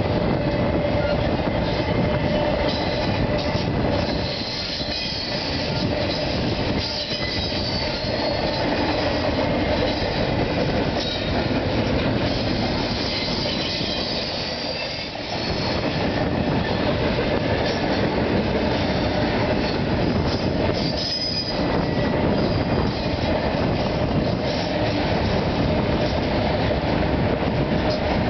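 Norfolk Southern freight train passing at close range: intermodal container cars, then autorack cars, rolling by with a steady rumble of steel wheels on rail and a thin high wheel squeal over it.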